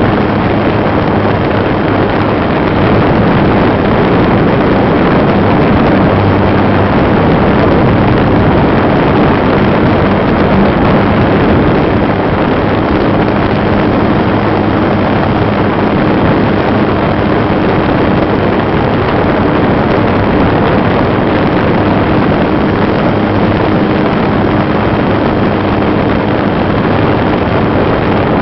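Electric motor and propeller of a GWS Slowstick RC plane in flight, recorded by a camera riding on the plane: a loud, steady rushing with a faint low hum and wind on the microphone.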